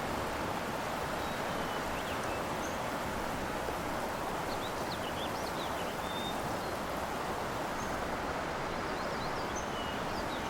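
Steady outdoor background noise, an even hiss, with a few faint short high chirps scattered through it, mostly around the middle and near the end.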